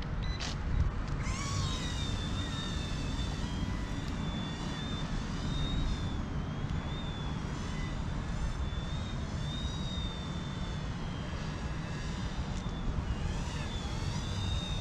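Eachine E120 small RC helicopter in flight: a high-pitched motor and rotor whine that wavers up and down in pitch, over a low rumble of wind.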